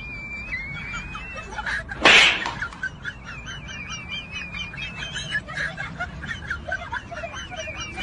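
Birds chirping and twittering in many quick, wavy notes throughout, with one brief loud rushing burst of noise about two seconds in.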